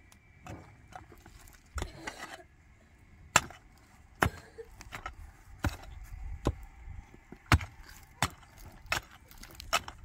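A series of sharp knocks and clicks, about a dozen, unevenly spaced.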